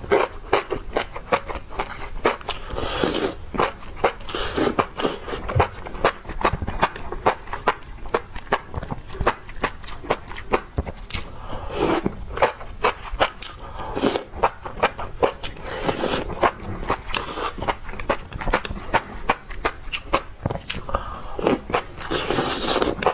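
A person chewing and biting enoki mushrooms: a dense, irregular run of quick mouth clicks and smacks.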